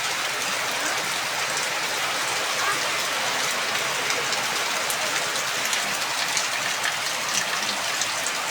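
Heavy rain falling steadily, an even hiss of many drops hitting surfaces, with fine patters of individual drops throughout.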